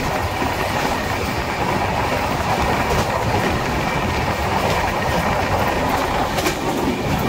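Shatabdi Express passenger coach running at speed on the track: a steady, loud rumble and rush of wheels on rail heard from beside the coach, with a faint click or two from the wheels over the rails about six and a half seconds in.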